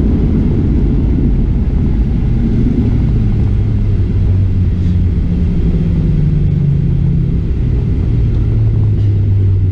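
Cabin noise of a Boeing 737-700 rolling on the ground just after landing: a loud, steady low rumble from the CFM56-7B engines and airframe, with low engine tones that rise a little in the middle and settle lower near the end.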